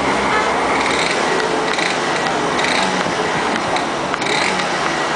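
Dirt bike engine running steadily, with a dense mechanical clatter.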